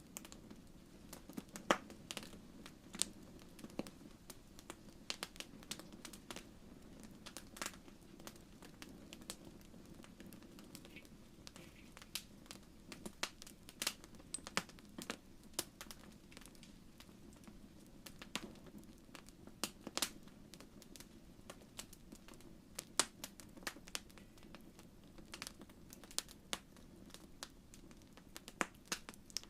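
Wood fire in a fireplace crackling, with irregular sharp pops and snaps over a low steady rumble of the flames.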